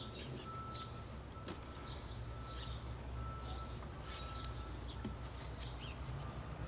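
Birds chirping faintly: many short, high chirps scattered throughout, over a steady low background hum.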